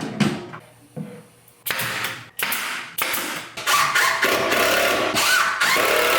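A hand-held power tool running in a few short runs, then a longer steady run from about three and a half seconds in.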